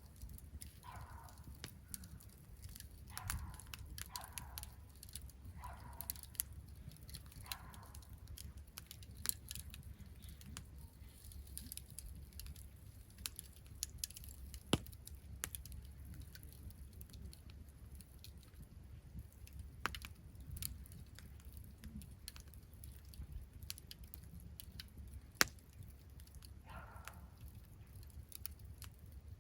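Wood campfire crackling, with sharp pops scattered throughout; the loudest pops come about 15, 20 and 25 seconds in. A short, faint, unidentified sound repeats several times in the first eight seconds and once near the end.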